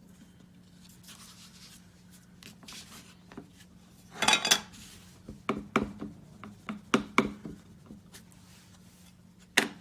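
Light taps and plastic clicks of rubber-stamping supplies being handled: a stamp on a clear acrylic block tapped onto a Versamark ink pad, a short cluster of taps about four seconds in, then several single clicks and one sharper click near the end. A low steady hum runs underneath.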